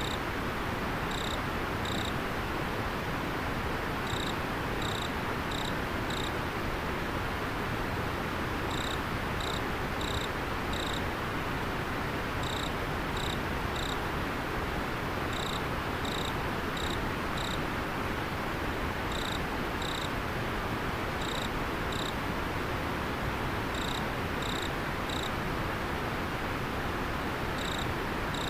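River water flowing with a steady rush, while an autumn insect chirps high, short chirps in little groups of two to four every couple of seconds.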